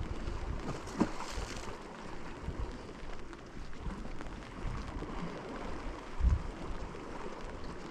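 Wind buffeting the microphone in irregular low rumbles over a steady outdoor hiss, with a brief sharper tap about a second in.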